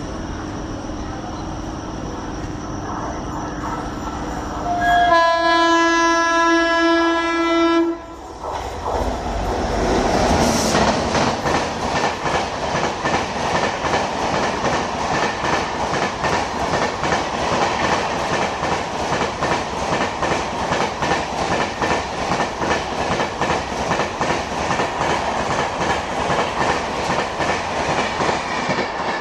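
Electric locomotive approaching with a steady hum, then its air horn sounds one long blast of about three seconds, about five seconds in. After that, a train of LHB passenger coaches passes close by at speed, with a fast, continuous clickety-clack of wheels over the rail joints.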